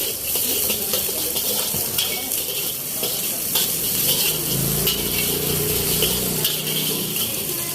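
Food sizzling in a hot wok, with sharp metal clinks and scrapes of a ladle or spatula against the pan as it is stirred. A low rumble swells briefly about halfway through.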